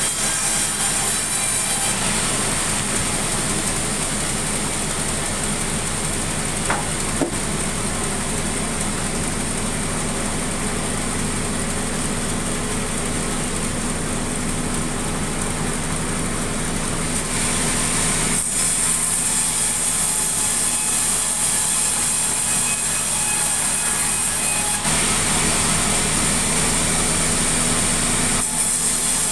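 Sawmill saw running and cutting sengon (albizia) timber into lumber: a steady machine drone with a high whine that is loud at first, fades, then comes back strongly over the last third.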